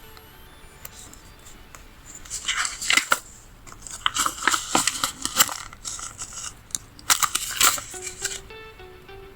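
Paper sticker sheets crackling as they are handled, in three bursts starting about two, four and seven seconds in. Soft background music plays under it and comes back clearly near the end.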